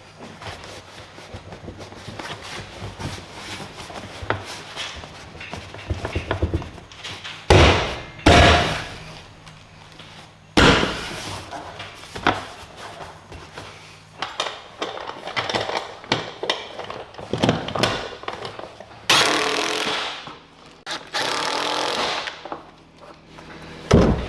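Tools and parts being handled during assembly work: scattered clicks and knocks, two loud thuds about seven and eight seconds in, a sharp knock a little later, and two stretches of about two seconds of steady hissing noise near the end.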